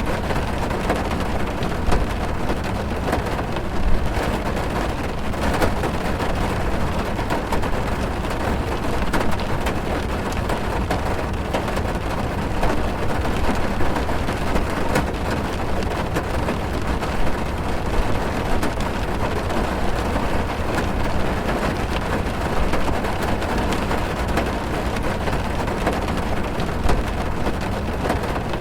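Heavy rain drumming on a car's roof and windows, heard from inside the car: a steady dense patter with a deep low rumble underneath.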